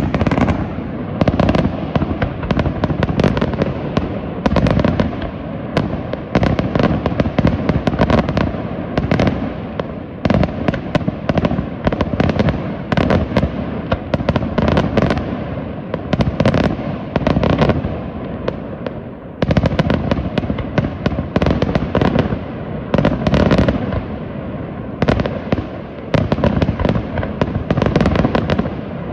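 Daytime fireworks barrage: a dense, continuous run of rapid firecracker reports and bangs, coming in crackling volleys with a few brief lulls.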